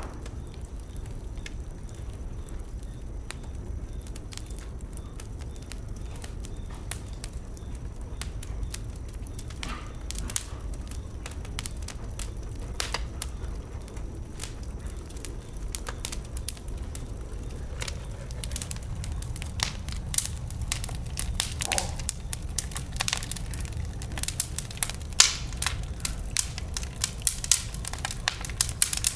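Wood bonfire burning: scattered pops and crackles over a low steady rumble, the crackling growing denser and louder from about two-thirds of the way through.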